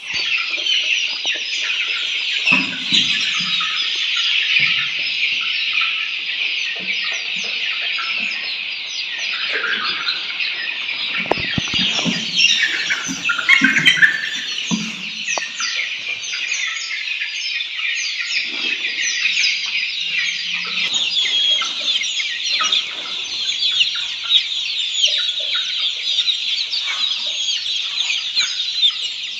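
A flock of black Australorp chicks peeping continuously in a dense, high chorus of overlapping calls, with a few lower clucking sounds now and then.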